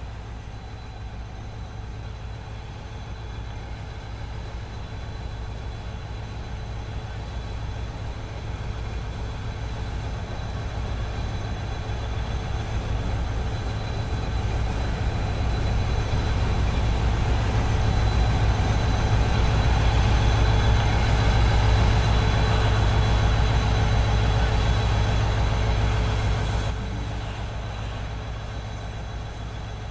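Norfolk Southern NS 8025, a GE ES44AC diesel locomotive, running at the head of a container train with a steady engine hum. It grows louder as it approaches, drops sharply about 27 seconds in as it passes, then fades away.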